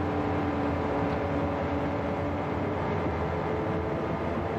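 1936 BMW 326 Cabriolet's straight-six engine running steadily as the car drives along, with road noise; its pitch drifts slightly lower over the first couple of seconds.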